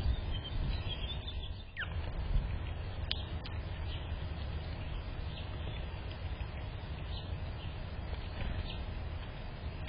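Faint, scattered bird chirps over a steady low outdoor rumble, with a short falling whistle about two seconds in and two sharp ticks a second later.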